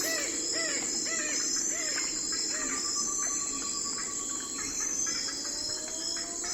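Night forest ambience: insects chirring steadily in a high, pulsing band. Over it, an animal calls in a run of short rising-and-falling notes, about two a second, through the first half. A long, slow gliding whistle follows near the end.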